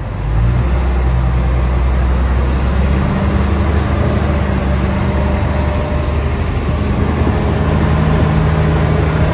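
Tour bus engine running steadily as the bus drives, with road and tyre noise, heard from inside the cabin; the engine note shifts about three seconds in.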